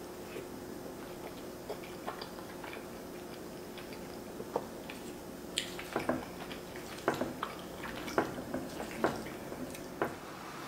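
Close-up wet chewing and lip smacking of someone eating creamy fettuccine alfredo, with scattered short sharp smacks that come thicker and louder in the second half.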